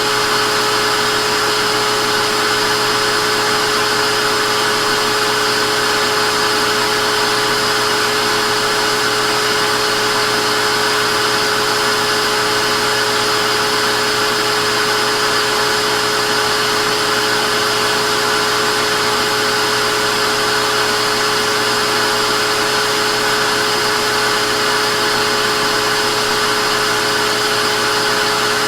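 Vacuum cleaner motor running steadily: a continuous rushing hum with a fixed high whine, unchanging throughout.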